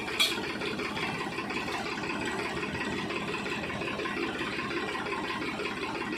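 Tractor diesel engine running steadily at idle, just back in working order after a clutch repair, with one sharp click shortly after the start.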